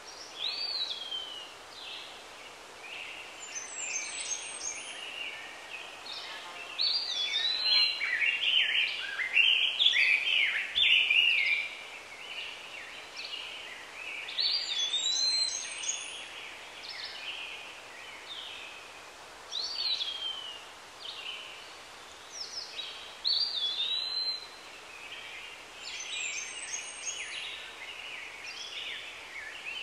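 Birds singing and calling: short whistled notes that swoop and slide, several voices overlapping, over a steady background hiss.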